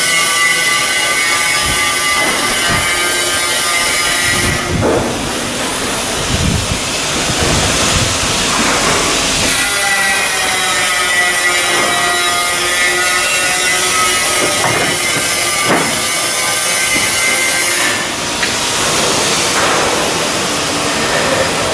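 Steady machinery noise with several held whining tones and a hiss, broken by occasional knocks.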